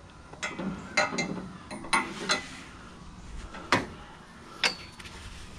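Scattered light metal clinks and knocks as scrap metal is handled and strapped down with a bungee cord. One knock near the end leaves a brief high metallic ring.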